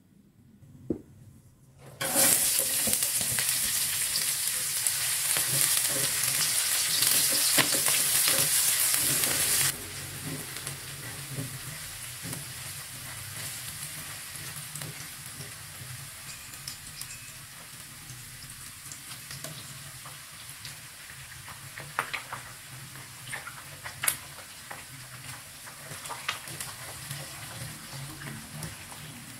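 Sliced shallots and red chilies sizzling in hot oil in a wok, starting suddenly and loudly about two seconds in, then dropping to a quieter steady sizzle after about ten seconds. A spatula scrapes and taps against the pan as it stirs, and near the end egg is frying and being scrambled in the same pan.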